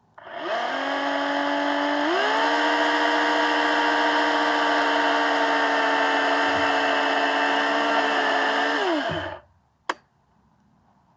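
Electric saw motor spinning up from rest to a steady high whine, stepping up in speed about two seconds in, then winding down and stopping near nine seconds. A single sharp click follows.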